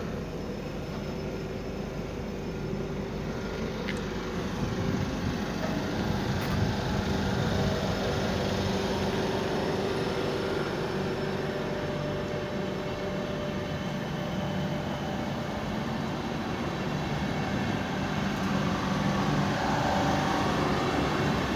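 ÖBB Railjet electric passenger train moving slowly along the platform: a steady rumble of wheels on rail with a steady electric hum.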